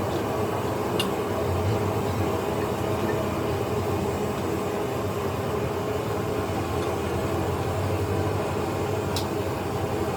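Steady machine running with a low hum, and two short high clicks, one about a second in and one near the end.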